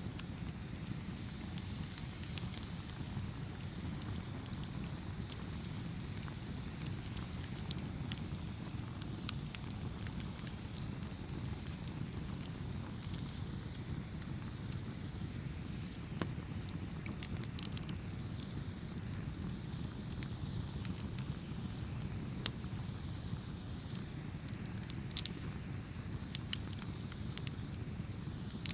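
Campfire burning: a steady low rush of flame with scattered sharp crackles and pops from the burning wood, a few louder pops near the end.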